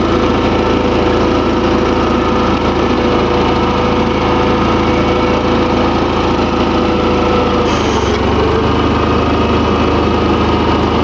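Simplicity (Allis-Chalmers) garden tractor's engine running steadily while the tractor reverses slowly in its lowest gear. About eight seconds in, the engine note shifts.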